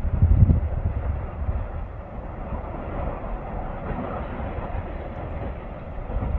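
Erupting volcanic vent roaring: a continuous low rumble, louder and uneven in the first second or so, then steadier.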